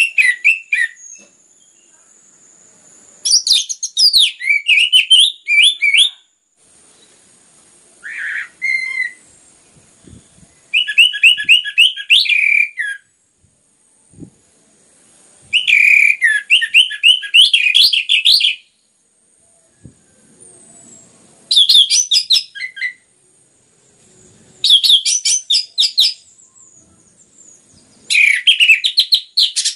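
Orange-headed thrush (anis merah) in full song: phrase after phrase of rapid, varied whistled notes, each phrase a second or two long, with short pauses between them.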